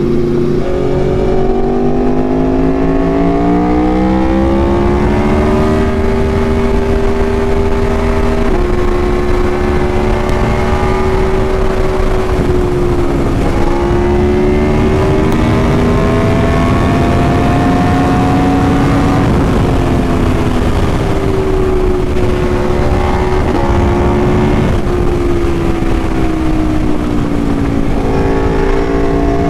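Aprilia Tuono motorcycle engine under way on the road, its note climbing, holding and then dropping suddenly at several gear changes. Heavy low wind rush on the microphone runs under it.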